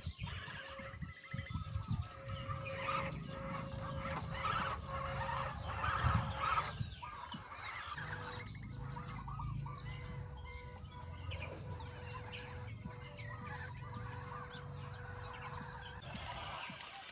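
Many short bird chirps and calls over a steady low rumble, with a held mid-pitched tone through most of it.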